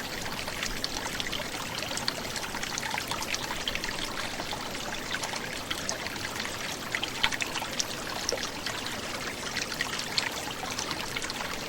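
Small forest brook gurgling and trickling over stones, a steady flow of water dotted with small splashes and drips.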